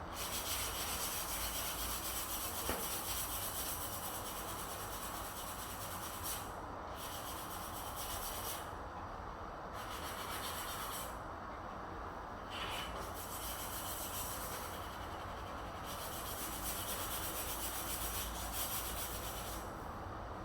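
Continuous abrasive rubbing, like sanding by hand, broken by four brief pauses in its hiss.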